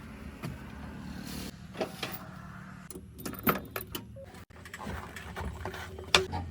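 Heavy diesel engine running steadily, with scattered short knocks and clanks.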